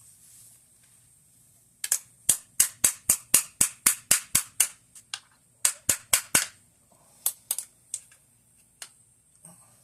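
Hammer tapping a part down onto an AK-47 rifle: a quick run of about a dozen sharp strikes, about four a second, then a shorter run and a few scattered single taps.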